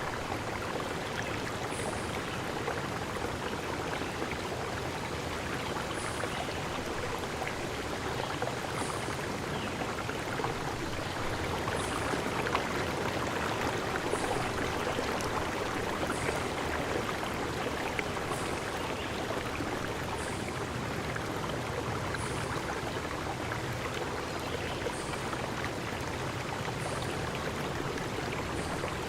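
Steady rushing of flowing water, like a stream, with a short high-pitched chirp repeating about every two seconds above it.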